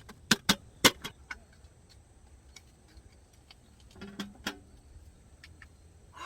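Sharp clicks and knocks of objects being handled: three loud ones in the first second, then scattered faint ticks and a pair of taps about four seconds in.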